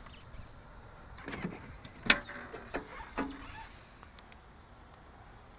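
Scattered clicks and knocks from something being handled on a parked vehicle, the sharpest click about two seconds in, with a brief hiss in the middle.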